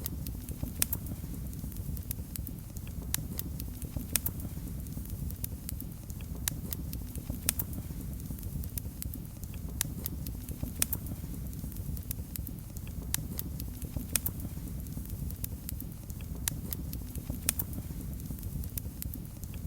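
Wood fire burning in a fireplace, with a steady low rumble and frequent sharp, irregular crackles and pops.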